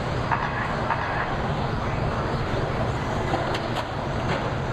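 Several radio-controlled racing trucks running around a track: a steady, mixed motor and tyre noise with a few faint clicks.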